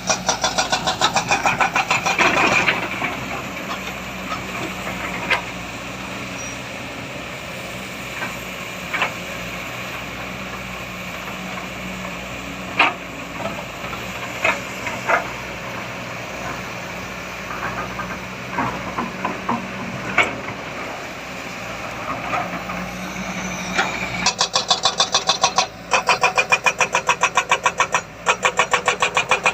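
Heavy diesel engine labouring with a fast, even pulsing for the first couple of seconds, dropping to a lower steady run broken by scattered metallic knocks and clanks, then pulsing hard again near the end.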